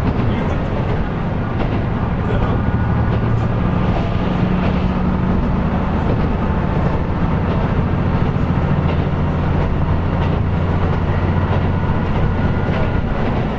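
KiHa 125 diesel railcar running on the line, heard from inside the car: the diesel engine drones steadily, with faint clicks of the wheels over the rails.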